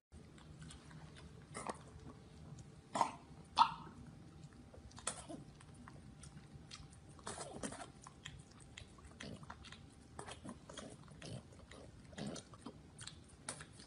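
A small flat-faced dog licking and gnawing an ice pop: a run of quiet, wet licking and smacking clicks, with two louder short sounds about three seconds in.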